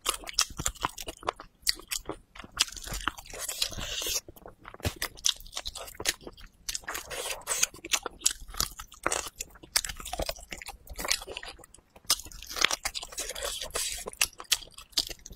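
A person chewing and biting braised pig tail close to a clip-on microphone: irregular sticky smacks and crunchy clicks of the mouth, with a couple of brief pauses.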